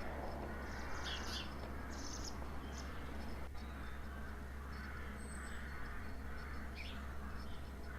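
Faint garden birds calling in the background: a few short, scattered chirps over a low, steady outdoor hum.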